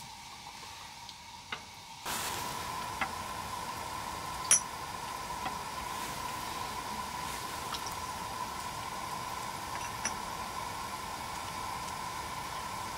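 Food sizzling in a hot pan: a steady hiss that starts suddenly about two seconds in, with scattered small pops, one louder about four and a half seconds in.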